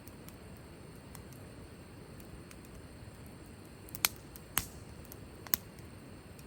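Wood fire crackling: a steady low rush of burning with faint ticks, and three sharp pops between about four and five and a half seconds in.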